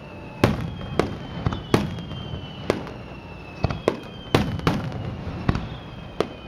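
Aerial fireworks exploding overhead: about a dozen sharp bangs at irregular intervals, some echoing. Faint high whistles slide slowly down in pitch between the bangs.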